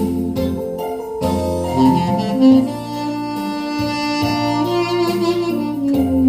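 Saxophone playing a melody of long held notes over an accompaniment with a steady bass line.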